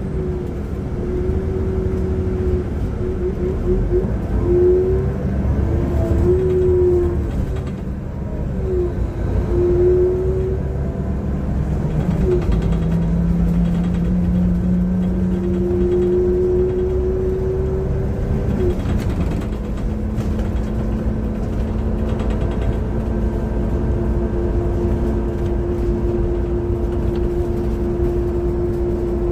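Transperth bus engine and drivetrain running under way, a low drone with a whine that rises and falls in pitch as the bus speeds up and slows, then holds steady for the last several seconds. The uploader calls it a bad engine sound.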